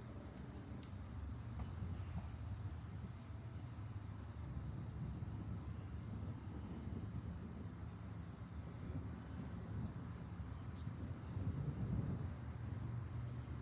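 Crickets chirping in a steady, continuous high-pitched chorus, with a low rumble underneath that swells briefly near the end.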